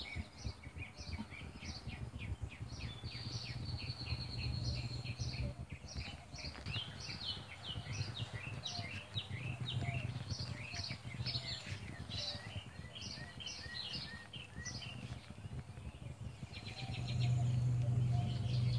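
Songbirds chirping, with many short, quick notes overlapping throughout, over a steady low hum.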